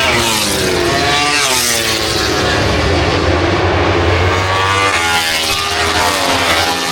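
MotoGP racing motorcycles passing at speed, loud engine notes rising and falling in pitch as bikes go by, several overlapping.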